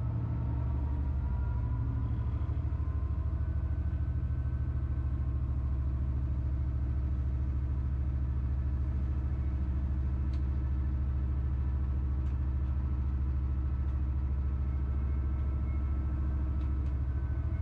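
Train running along the track, heard from on board: a steady low rumble with a faint whine above it, and a few faint clicks near the end.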